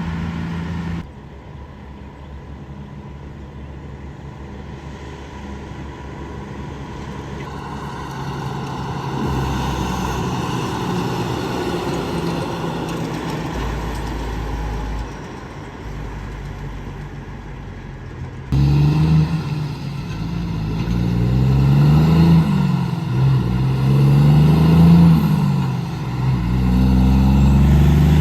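Heavy trucks passing on the road, the traffic noise swelling and fading. About two-thirds of the way in, a louder truck engine starts suddenly close by, its pitch rising and falling repeatedly.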